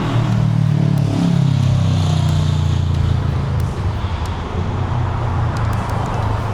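A classic muscle car's engine rumbling at low speed close by. Its pitch drops about a second in, then it settles into a steady low rumble.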